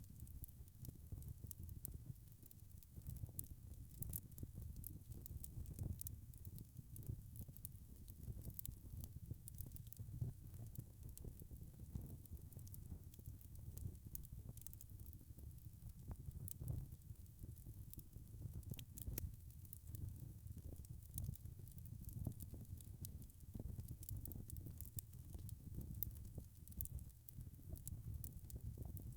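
Wood fire burning in a fireplace: a steady low rumble of the flames with frequent small, sharp crackles and pops from the burning logs.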